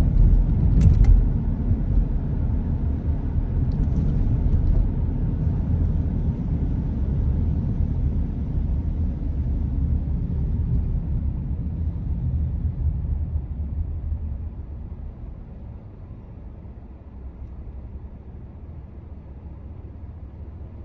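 Car driving, heard as a steady low road-and-engine rumble, with a couple of short clicks about a second in. The rumble drops noticeably in level about fourteen seconds in.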